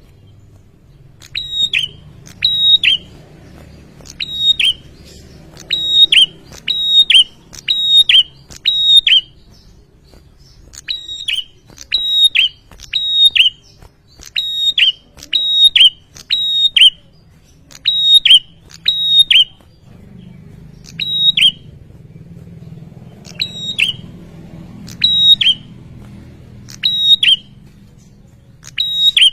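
Prinia (prenjak) calling: a long series of short, sharp, downward-hooking notes, about one to two a second, in runs with brief gaps, over a faint low hum.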